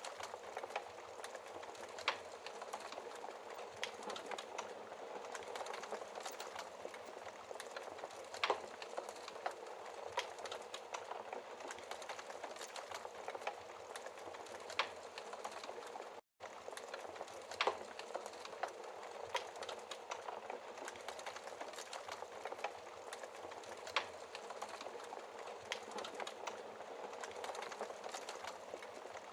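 Wood fire burning in a fireplace: a steady hiss of small crackles with a louder pop every few seconds. The sound cuts out for a split second about halfway through.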